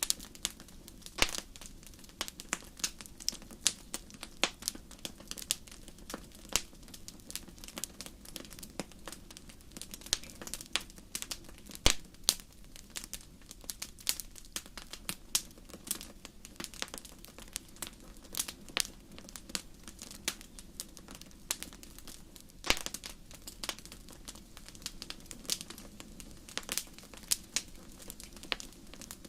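Wood fire crackling in a fireplace: irregular sharp pops and snaps, several a second, with a few louder pops, over a soft steady low background.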